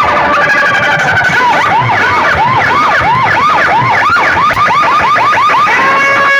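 Electronic siren effect blared through a competition DJ sound system's speaker boxes: a repeating rise-and-fall whoop that comes faster and faster, then settles into a steady held tone near the end.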